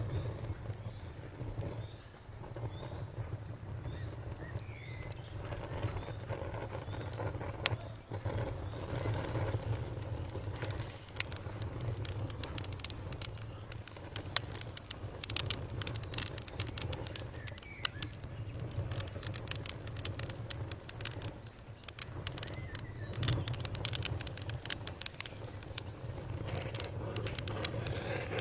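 Wood fire crackling with sharp pops that come thicker from about a third of the way in, over a low steady rumble. A cricket chirps in a high rapid pulse for the first few seconds, and birds chirp now and then.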